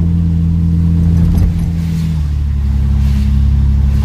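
BMW E36 engine running through a muffler-deleted exhaust, a steady deep drone whose note shifts a little about two seconds in.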